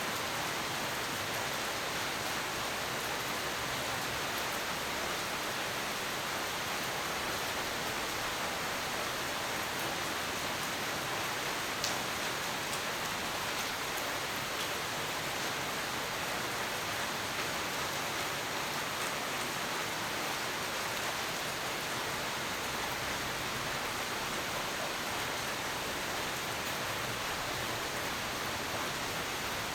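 Steady rainfall, an even hiss with no thunder, and a single sharper drop tick near the middle.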